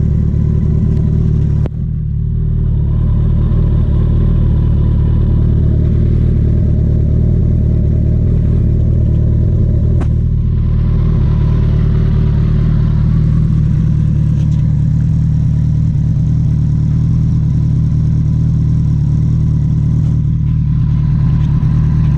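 Kawasaki ZX-14R inline-four engine running at a steady speed, with a brief drop in loudness about two seconds in.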